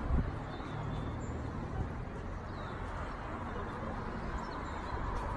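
Steady outdoor rumble and hiss, with a few faint high bird chirps over it.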